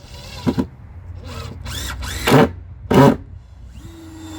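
Power drill run in several short trigger bursts, its motor pitch rising and falling, then held at a steady speed for about a second near the end.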